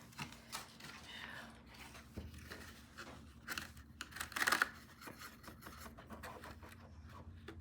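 Small clicks and light handling noises of painting supplies being moved about on a table, with two short scraping sounds about three and a half and four and a half seconds in.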